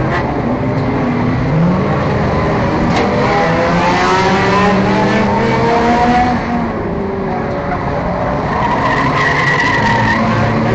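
Several four- and six-cylinder enduro race cars running together, their engine notes rising and falling in pitch as they accelerate and lift. A high squeal, typical of tyres sliding in a turn, sounds for about a second and a half near the end.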